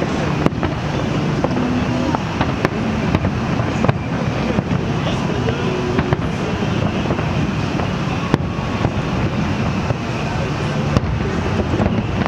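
Aerial fireworks display in full swing: sharp shell bangs about once a second over a steady low rumble of bursts.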